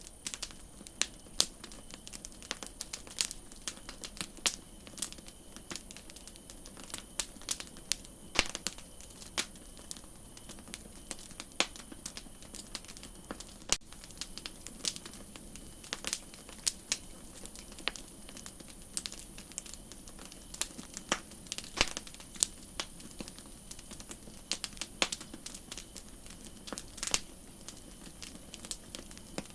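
Campfire crackling: irregular sharp pops and snaps, some much louder than others, over a soft steady hiss that gets a little louder about halfway through.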